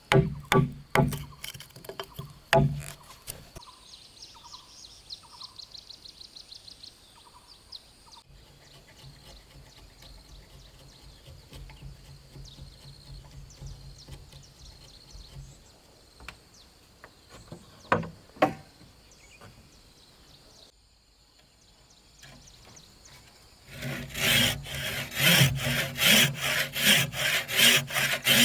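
Woodworking by hand: a few knocks of wood at first, a quieter stretch, then near the end a handsaw cutting through wood in quick, even back-and-forth strokes.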